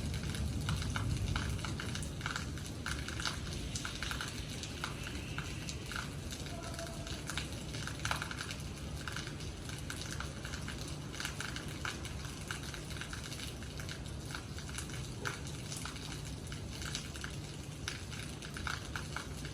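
Rain falling, heard as a dense, irregular crackle of drops striking a surface, over a steady low hum.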